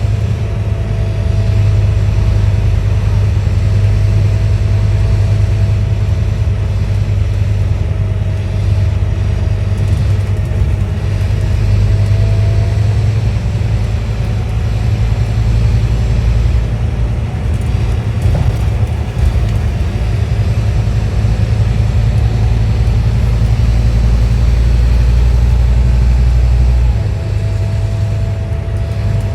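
Scania N230UD OmniDekka double-decker bus's engine running steadily under way, a deep continuous drone with a faint whine above it. Near the end the deepest part of the drone eases off.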